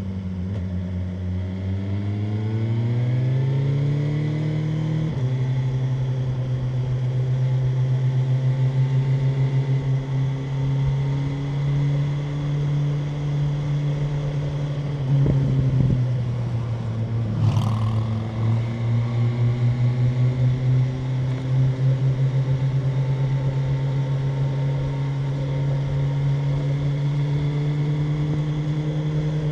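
BMW M1000R Competition's inline-four engine under way on the road. It pulls up through the revs, shifts up about five seconds in, then runs at steady throttle. Near the middle the revs dip with a brief sharp crack, then climb slowly again.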